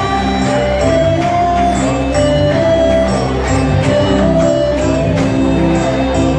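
Live band music of a Sudanese Christian hymn: a held melody over a bass line, with a steady percussion beat of about two strokes a second.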